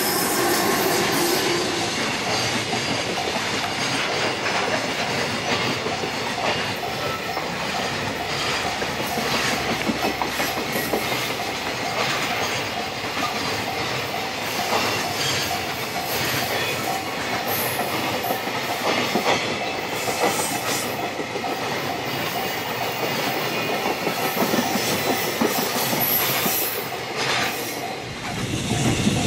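A train running past at close range, its wheels clattering steadily over the rail joints in a continuous dense clacking that lasts the whole time.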